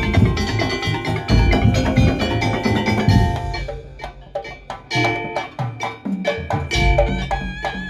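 Madurese tong-tong percussion ensemble music: drums and wooden slit drums with tuned, pitched percussion. Dense, heavy drumming for the first three and a half seconds, then a lighter passage of struck melodic notes, with a wavering melody line near the end.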